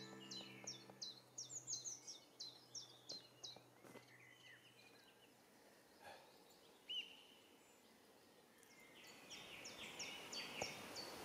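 Faint birdsong: a run of quick, high chirps, then a short lull, then more chirping near the end.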